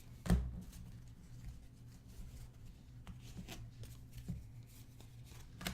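Trading cards being handled and sorted on a table: light sliding and shuffling with scattered clicks and taps, one sharper knock about a third of a second in, over a steady low electrical hum.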